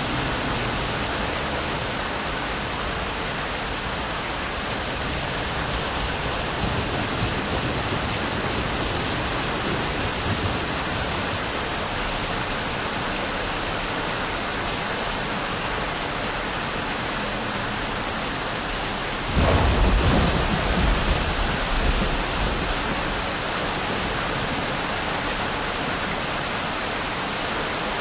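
Steady rain with thunder: a low rumble of thunder about seven seconds in, then a sudden, louder crack of thunder about nineteen seconds in that rumbles on for a few seconds.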